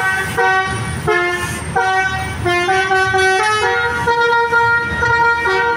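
Bus telolet horn playing a melody: several horn tones sounding together and stepping from note to note every fraction of a second.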